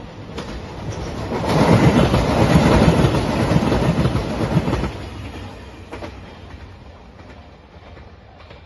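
JR Shikoku 2700 series diesel train passing close by, its wheels clattering over the rail joints. It builds over the first second or so, is loudest for about three seconds, then fades as it moves away.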